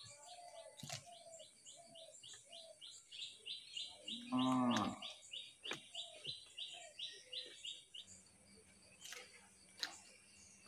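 Crunching and chewing of a raw cucumber, with a run of high chirps about three a second behind it that stops about eight seconds in. About four and a half seconds in comes a short, louder, low call, moo-like.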